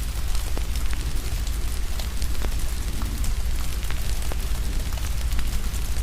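Wood fire crackling, with irregular sharp pops scattered throughout, over a steady hiss of rain and a deep low rumble.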